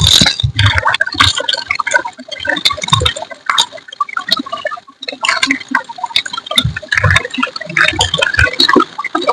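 Wet squishing and liquid sounds, broken by irregular clicks and taps and a few short low thumps.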